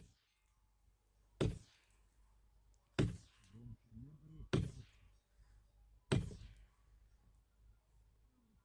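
Wood being struck: four heavy knocks at an even pace, about one and a half seconds apart, like strokes while cutting firewood.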